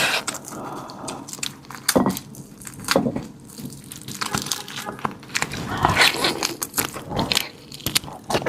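Someone biting and chewing raw marinated black tiger prawns close to the microphone, giving irregular crunches and clicks.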